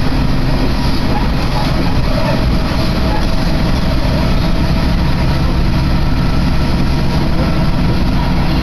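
Steady running noise inside a diesel railcar: a low engine drone under the rumble of the wheels on the rails as the train travels along.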